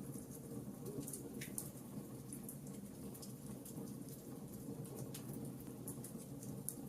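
Wood fire crackling: irregular small pops and ticks over a low steady rumble of the flames.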